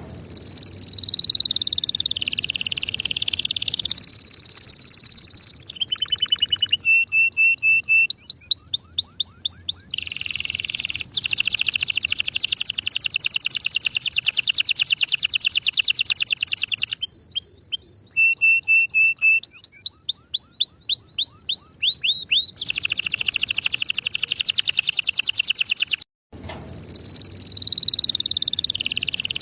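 Domestic canary singing a long, varied song: fast buzzing trills and rolls alternate with runs of repeated sweeping notes and short held whistles. The song breaks off briefly near the end, then starts up again.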